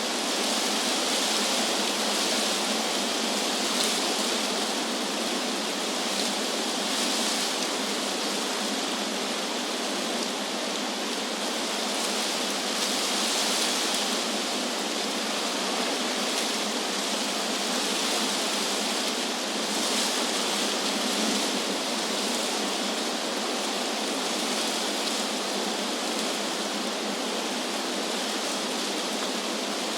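Wind blowing through trees: a steady rushing of leaves that swells and eases gently every few seconds.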